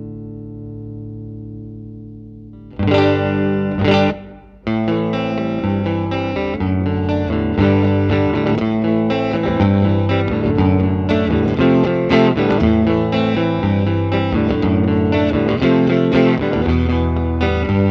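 Electric guitar, a Fender Stratocaster, played through a Line 6 Helix amp-and-cab model with some distortion. A held chord dies away, two hard-struck chords ring out about three and four seconds in, and after a brief break a continuous riff runs on.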